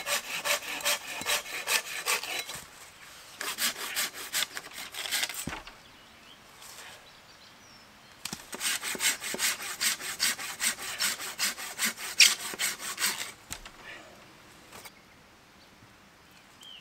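Hand saw cutting through wood in quick back-and-forth strokes, about three a second. It comes in three spells with short pauses between them and stops a few seconds before the end.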